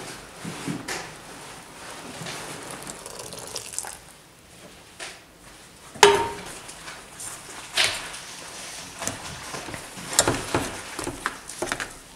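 Hot water poured in a thin stream onto dry rolled oats in a steel bowl. About six seconds in comes a sharp metallic clink with a brief ring, then a spoon scrapes and stirs the wet oats against the bowl in short strokes.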